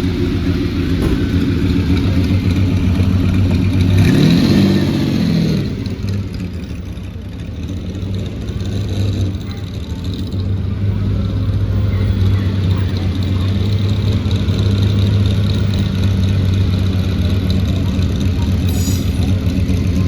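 A car engine running steadily, with a brief rev that rises and falls in pitch about four seconds in.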